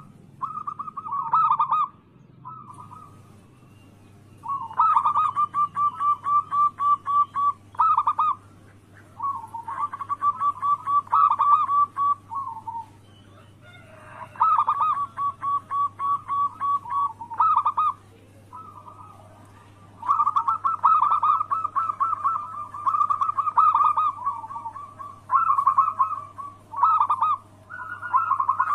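Zebra dove (perkutut) calling: repeated runs of rapid, evenly pulsed cooing notes, about six a second, each run lasting a couple of seconds with short pauses between. A faint steady low hum lies underneath.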